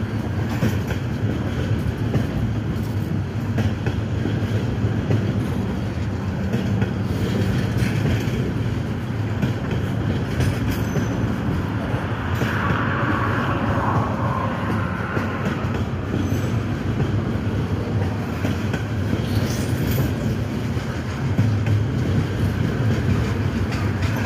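Train cars rolling steadily past with a continuous rumble and clicking of wheels over the rails. A brief higher wheel squeal rises about halfway through.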